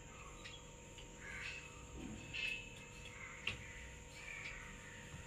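Faint bird calls, several short caws spread through the quiet, with a single light click about three and a half seconds in.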